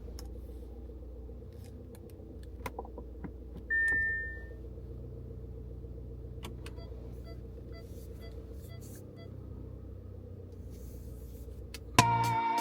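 Steady low rumble of a car running, heard from inside the cabin, with small clicks and rattles and a single short beep about four seconds in. Music starts near the end.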